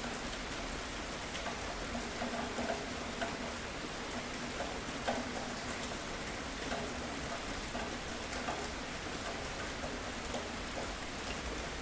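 Steady rain falling, with scattered louder drops ticking on a nearby surface.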